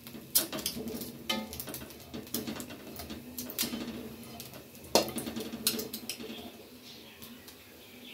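Slotted steel spatula scraping and clinking against a steel karahi, stirring sliced bitter gourd rings as they dry-fry to drive off their water. The sharp clicks come irregularly and thin out near the end.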